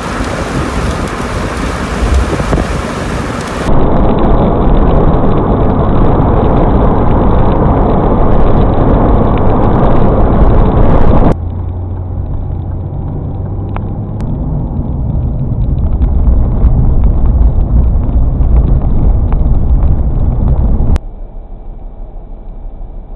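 Loud, steady rumbling noise of a vehicle running and wind on the microphone, in several spliced clips that cut off abruptly about 4, 11 and 21 seconds in, quieter after the last cut.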